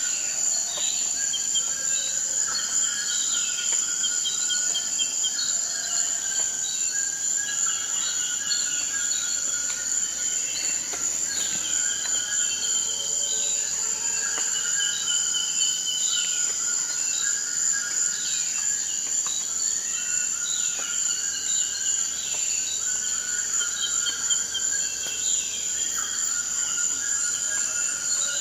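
Forest ambience: a steady, high-pitched insect chorus of crickets, with birds calling over it in short repeated notes and falling whistles.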